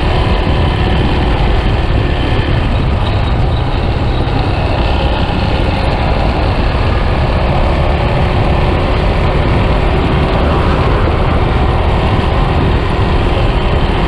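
Yamaha Scorpio motorcycle running steadily on the move, its engine mixed with road and wind noise.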